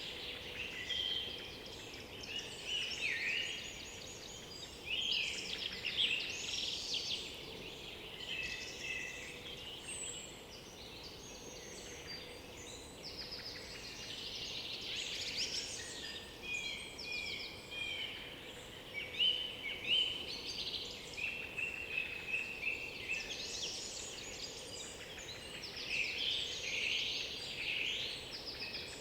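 Several songbirds singing at once in a continuous woodland chorus, with overlapping trills, chirps and whistled phrases. A faint steady hum sits underneath.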